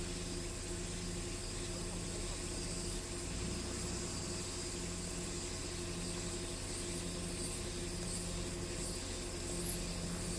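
Vehicle engine running steadily at low revs, with a steady high hiss above it.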